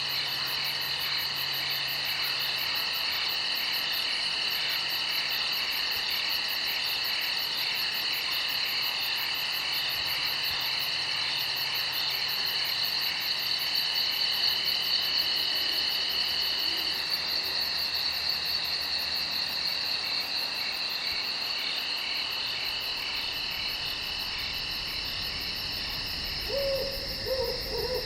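A night chorus of crickets and other insects trilling steadily, several pulsing songs overlapping at different pitches. About a second before the end, a few short, falling calls at a lower pitch break in.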